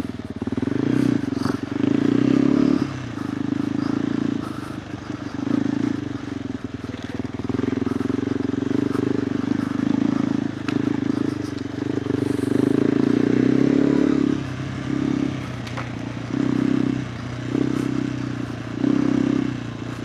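KTM 390 Adventure R's single-cylinder engine through a Norifumi Whoops slip-on exhaust while riding on dirt: the throttle opens and closes over and over, with a longer pull past the middle and a run of short bursts near the end.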